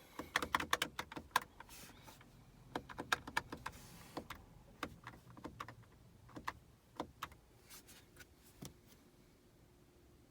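A C7 Corvette that won't start, clicking rapidly and irregularly in bursts, with no engine turning over.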